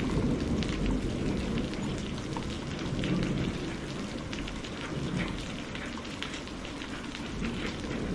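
Steady heavy rain, many drops pattering on a surface, over a low rolling rumble of thunder that swells near the start and again about three seconds in, then eases off.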